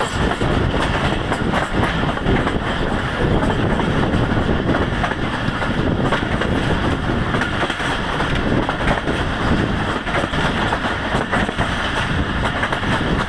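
Passenger coach of a moving train, heard from its open window: wheels running on the rails with a steady rumble and a scatter of clicks and clatter over the track.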